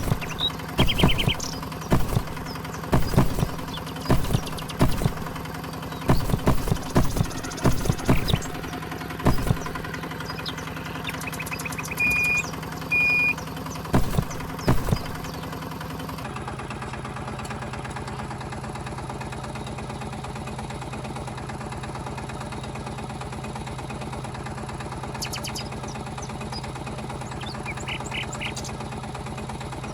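Small motor humming steadily, with a string of sharp clicks and knocks through the first half and two short high beeps about twelve seconds in. The knocks stop about halfway, the hum drops slightly in pitch and runs on alone.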